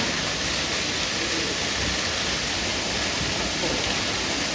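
Waterfall pouring into a rainforest pool: a steady, unbroken rushing hiss.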